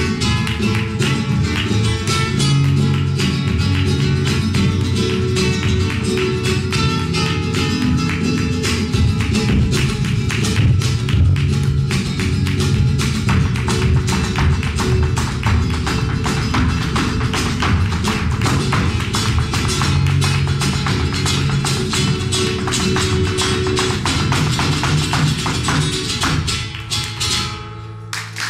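Live flamenco: acoustic guitar playing with sharp percussive taps that grow dense and rapid through the second half, breaking off just before the end.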